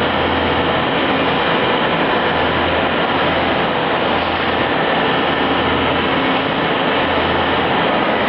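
CNC machine tool running: a loud, steady mechanical noise with a low hum that swells and fades about every second and a half.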